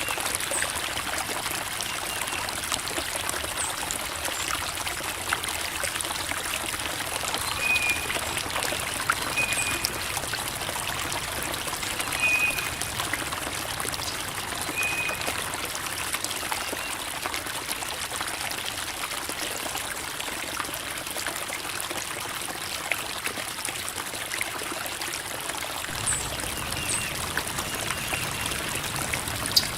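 Creek water babbling and trickling: a steady wash of running water with many small splashes and drips. A few short, high chirps come through between about eight and fifteen seconds in.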